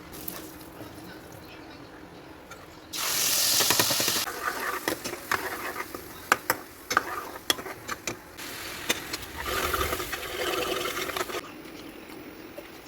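Kitchen cooking sounds: a loud stretch of hissing noise about three seconds in, a run of sharp clinks and knocks of utensils, then a second stretch of hissing noise, all over a faint steady hum.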